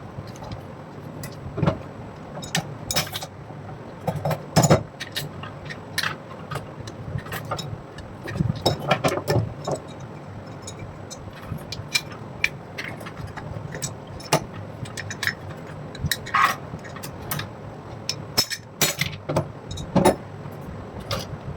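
Irregular metallic clicks, clinks and knocks of metal parts and tools being handled, over a steady low hum.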